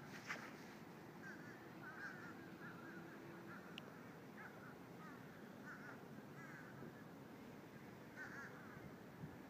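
Birds calling faintly: short, wavering calls repeated irregularly, roughly once a second, over a low steady hiss.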